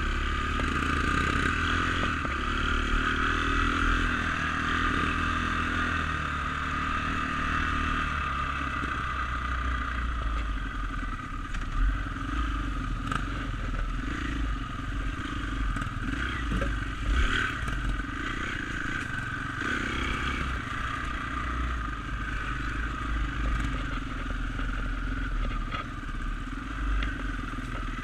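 Dirt bike engine running under way, heard from a GoPro, with the pitch shifting up and down in the first several seconds. Scattered sharp clicks and knocks from the bike's clatter come through over the engine.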